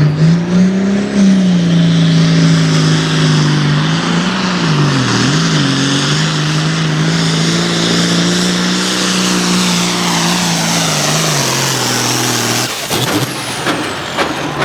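A modified diesel farm tractor's engine running hard at full throttle while it pulls the sled, its pitch dipping and wavering briefly about four to five seconds in, then cutting off sharply near the end as the run ends.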